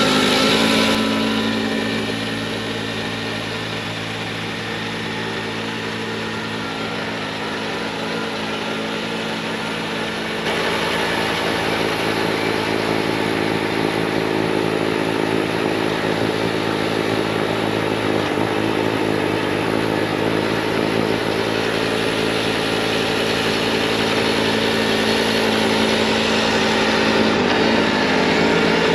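Diesel engine of a Bobcat T66 compact track loader running steadily at full throttle while it drives a snowblower attachment. It fades a little about a second in, then steps up sharply in loudness about ten seconds in.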